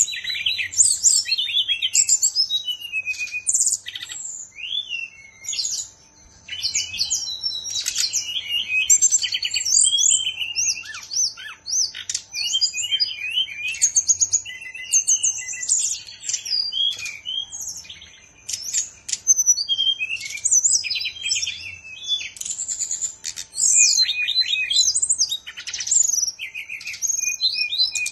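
A caged brown-chested jungle flycatcher (SRDC) singing almost without pause: long runs of fast, varied high whistles, trills and rapid chattering notes, breaking off only briefly a couple of times.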